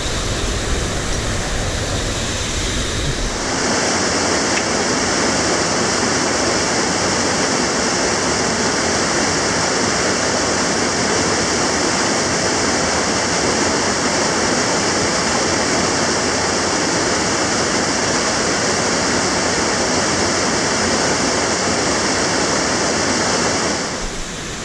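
Mountain torrent and small waterfall in a rocky gorge, a steady rush of water. The sound gets louder and fuller about three and a half seconds in, then drops back near the end.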